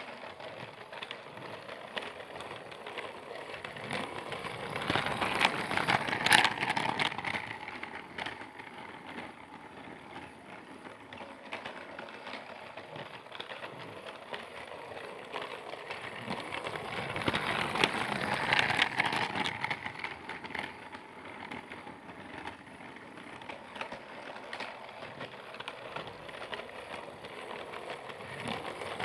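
Percy train running with a rattling mechanical sound. It grows louder and fades again twice, about twelve seconds apart.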